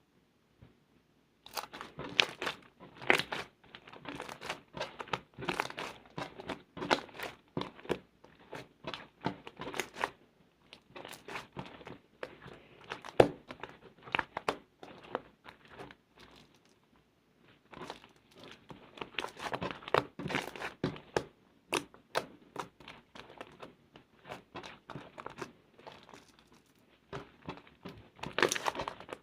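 Slime being squeezed, stretched and folded by hand, giving dense runs of crackling, popping clicks. The sound starts about a second and a half in and stops briefly a little past the middle.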